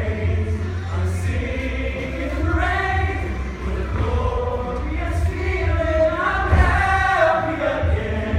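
A group of voices singing together in sustained phrases over a steady low rumble.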